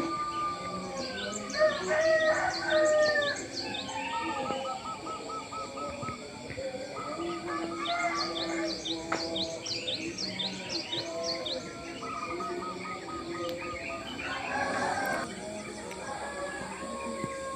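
Several birds singing at once: quick high falling chirps, trills and runs of rapidly repeated notes, overlapping without a break.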